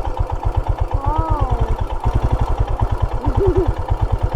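Royal Enfield Himalayan's single-cylinder engine idling with a steady low thump, about eleven beats a second.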